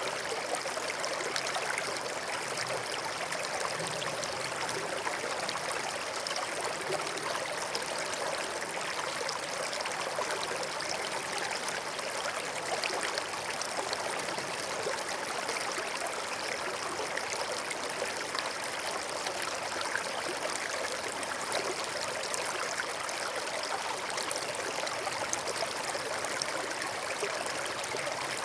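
A forest stream flowing and trickling steadily over stones.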